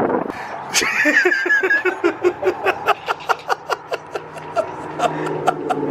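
A person laughing in a long run of short, quick bursts, about four or five a second, after a high squealing sound near the start.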